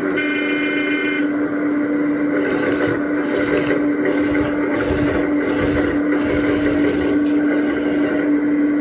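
Lesu 1/14 scale ET35 RC hydraulic excavator running: a steady motor hum with one held tone, fitted with an engine-sound module. From a couple of seconds in, a rhythmic pulsing of about two beats a second joins it.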